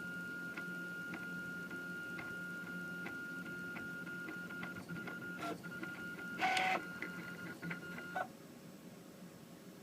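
Prusa i3 3D printer running a print: a steady high motor whine with regular ticks and a short louder buzz about six and a half seconds in. The whine stops about eight seconds in, leaving a faint hiss.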